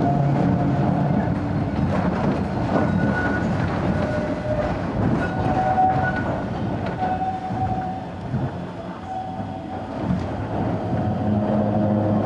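Narrow-gauge 270-series electric train running, heard from on board: a steady rumble and clatter of wheels on rail with some motor hum. It eases to a quieter stretch about two-thirds of the way through, then the low hum comes back near the end.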